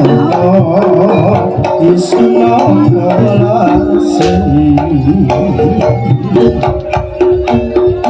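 Live jaranan music: a singer's Javanese song over a fast, dense hand-drum beat, likely kendang, with sustained melodic instruments.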